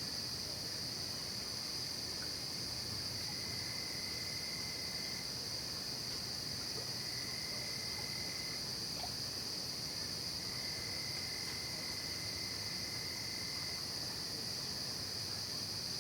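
Night chorus of crickets and other insects: a continuous high-pitched trilling, with a lower-pitched trill that starts and stops in long stretches three times.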